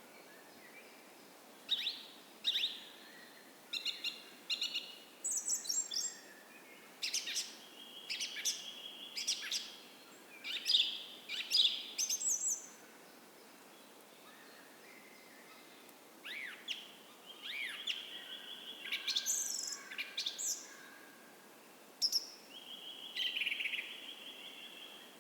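Dawn chorus of several songbirds: bursts of chirps, quick pitch-gliding whistles and buzzy trills, in clusters with a short lull about halfway through. A faint steady hiss lies underneath.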